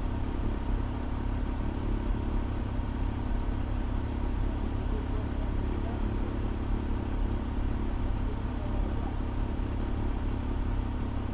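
Fire engine's diesel engine running steadily, a constant low rumble heard from inside the cab.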